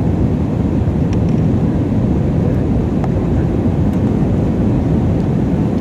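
Steady low rumble of an airplane's engines and rushing air during a landing.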